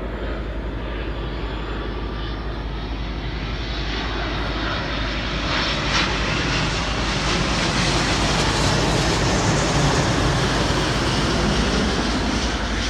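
Jet airliner on approach to land passing by, its engine noise swelling to a peak about two-thirds of the way through and then starting to ease off.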